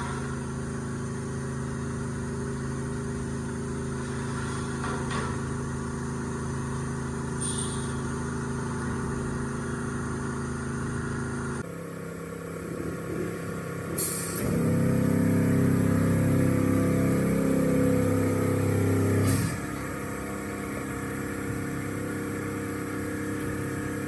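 An engine running steadily, with a louder stretch of about five seconds just past the middle.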